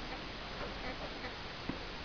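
Pet budgerigars playing, making faint scattered ticks and small chirps over a steady hiss, with one sharper click near the end.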